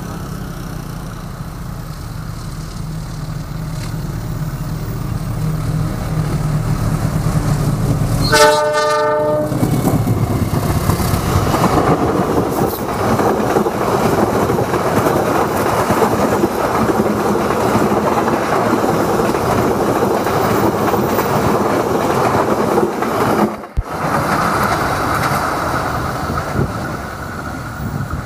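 Passing train: a low locomotive engine rumble, then one horn blast of about a second, about eight seconds in. The carriages then go by with steady wheel-on-rail noise.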